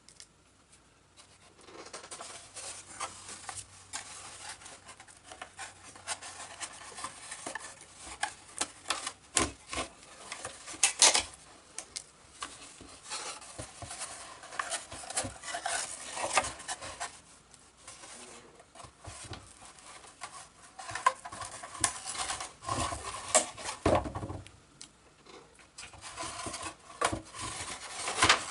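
Rubber bands being worked off a wooden model-airplane fuselage: irregular rubbing and scraping with scattered snaps and clicks, one sharper snap about eleven seconds in.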